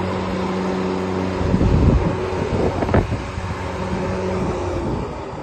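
Robotic lawnmower running with a steady motor hum, with wind noise on the microphone. The hum breaks up briefly before a sharp knock about three seconds in, then returns and fades near the end.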